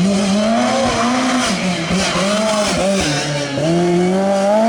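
Rally car engine at high revs, its pitch rising and falling repeatedly as the driver works the throttle and gears. It drops about three seconds in, then climbs and holds high near the end.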